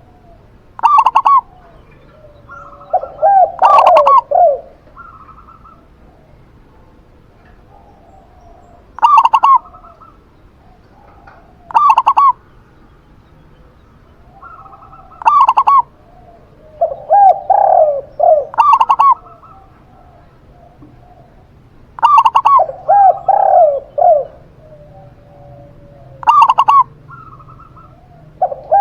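Zebra dove and spotted dove cooing, in short repeated phrases every few seconds. Some phrases are brief higher, rattly coos; others are longer, lower, bending coos.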